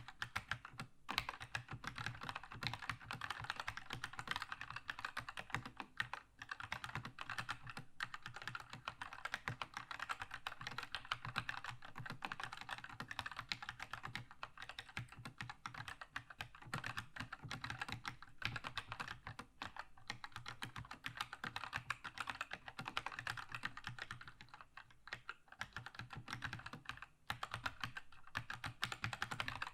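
Keychron K2 mechanical keyboard with red linear switches being typed on in a fast, continuous stream of key clacks, with brief pauses a few times.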